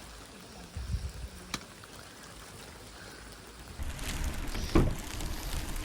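Heavy rain falling steadily. About four seconds in, a louder low rumbling noise sets in, with a sharp knock shortly after.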